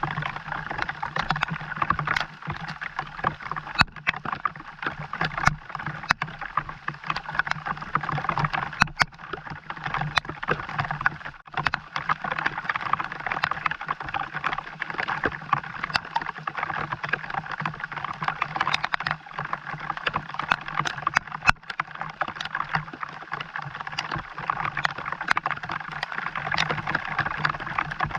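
Steady rain falling, a dense patter of drops with many sharp ticks, over a low steady hum.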